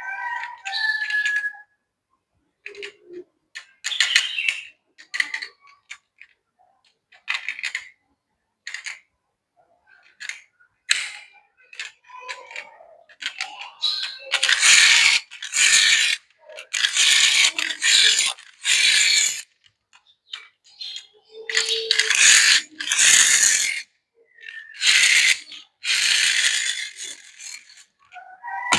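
Small die-cast metal toy cars being handled: scattered clicks and knocks, and repeated ratchety, rasping runs about a second each.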